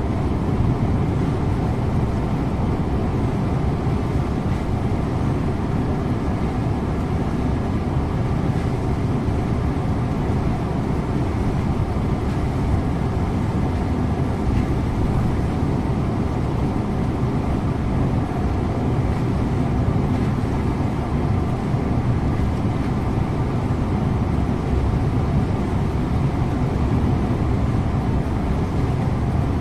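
Scania InterLink bus driving at a steady pace, heard from the driver's seat: a steady low engine hum mixed with road and tyre noise, with no gear changes or sudden events.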